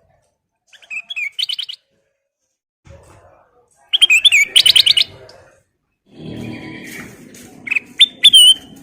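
Kutilang emas bulbul singing in short bursts of quick, repeated chirping notes, loudest about four seconds in. A low background noise rises in about six seconds in.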